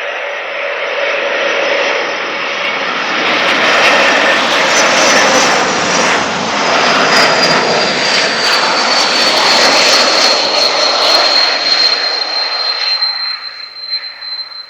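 Airbus A220-300 with Pratt & Whitney PW1500G geared turbofan engines passing by on landing approach. The loud jet rush builds, peaks and then fades. A high whine through it slides down in pitch as the aircraft goes past.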